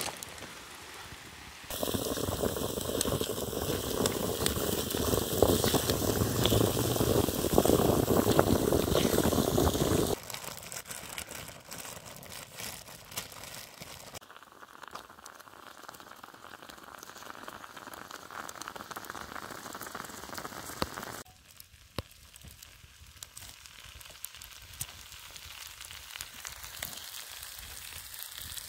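Tomato sauce, beans and vegetables sizzling in a frying pan, a dense crackle that is loudest for the first several seconds and then drops abruptly to a quieter sizzle.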